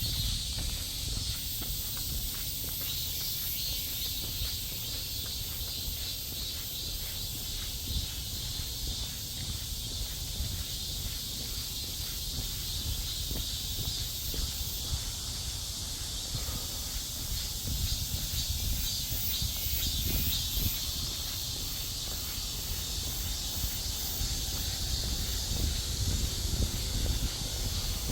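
Steady high buzzing of cicadas, with the faint steps of someone walking on a trail and a low rumble of wind or handling on the microphone.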